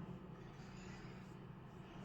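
Faint room tone: a steady low hum with soft hiss.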